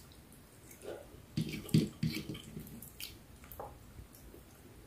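Person chewing a mouthful of ripe mango and rice: soft, wet mouth and lip-smacking sounds, a scatter of short sounds busiest between one and two and a half seconds in.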